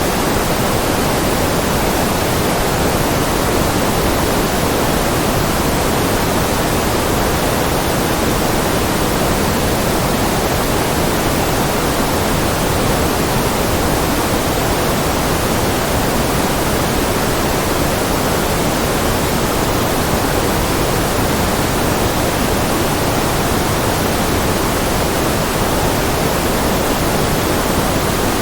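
Generated white noise: a steady, unchanging hiss with no breaks or rhythm, slightly fuller in the lower middle range.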